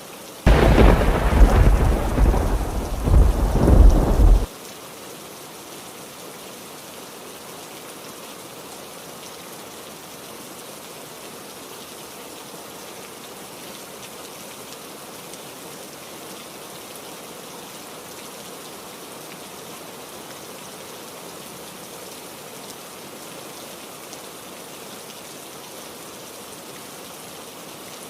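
Steady heavy rain, with a loud crack of thunder about half a second in that rumbles on for about four seconds and then cuts off suddenly.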